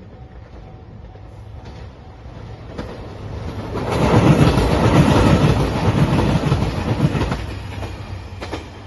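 JR Shikoku 2700 series diesel express train passing close by. It grows louder from about three seconds in and is loudest between about four and seven seconds, with the wheels clattering over the rail joints, then it fades as the train draws away.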